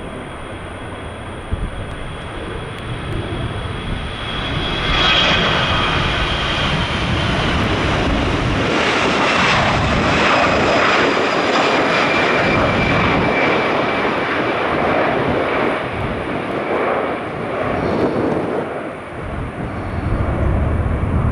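Jet airliner passing close, its engine roar swelling about four seconds in and staying loud, with a high engine whine that slides down in pitch as it goes by.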